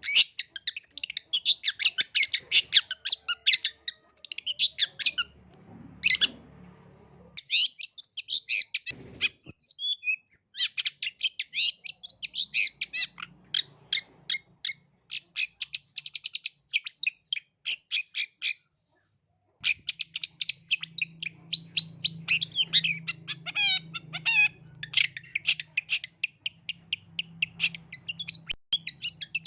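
Long-tailed shrike (cendet) singing in rapid runs of short, high chattering notes, broken by two brief pauses, about a quarter of the way in and about two-thirds of the way in.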